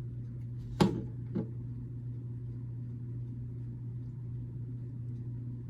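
Two short clicks of plastic building bricks, a second in and about half a second apart, the first louder, over a steady low hum.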